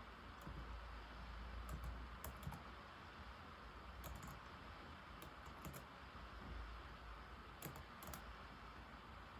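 Typing on an old laptop keyboard: irregular, scattered key clicks in small clusters over a steady background hiss.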